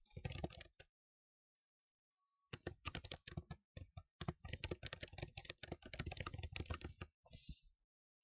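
Rapid typing on a computer keyboard, a dense clatter of keystrokes that stops about a second in and resumes about two and a half seconds in. Near the end the typing stops and a brief soft noise follows.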